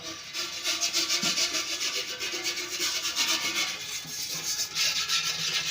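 Rhythmic rasping scrape, pulsing several times a second, with a faint steady hum beneath; it cuts off abruptly at the end.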